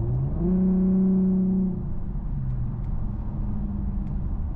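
Infiniti Q50 3.7's V6 running through a custom stainless exhaust with an X-pipe and Flowmaster FX mufflers, accelerating: the engine note rises quickly just after the start and holds at its loudest for about a second and a half, then drops back to a lower, quieter steady note.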